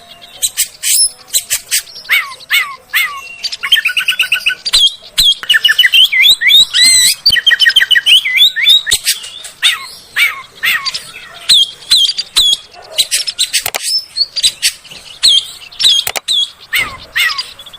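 Oriental magpie-robin (kacer) singing a loud, varied song: sharp clicking notes, whistles sliding up and down, and a stretch of fast repeated notes near the middle.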